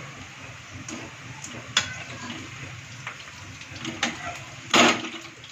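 A few sharp clinks of a kitchen utensil against a pan, and a louder short scrape about five seconds in, over a steady low background hum, as fried onion masala is scooped out of the pan.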